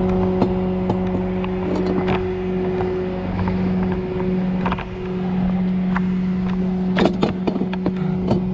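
A steady mechanical hum, like a running engine or motor, with scattered sharp metallic clicks and knocks; a cluster of them comes about seven seconds in.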